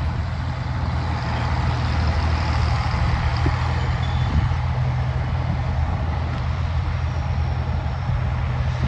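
Tractor engine running steadily under load, pulling a moldboard plow through the field.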